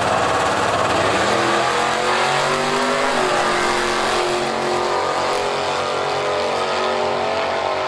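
Sportsman drag racing car engines at full throttle accelerating down the strip. The pitch climbs, drops about three seconds in at a gear change, then climbs again.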